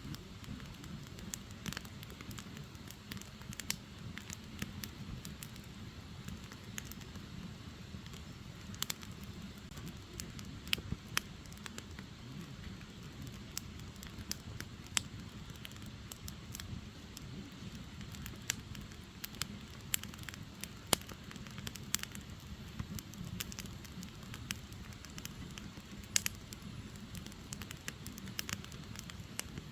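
Firewood logs burning, crackling with frequent sharp, irregular pops over a steady low rush of flame.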